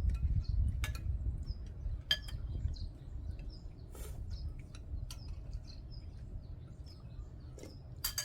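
Metal spoons clinking against bowls a few times, each clink sharp and ringing briefly, while small birds chirp repeatedly in short high notes. A low rumble fades over the first few seconds.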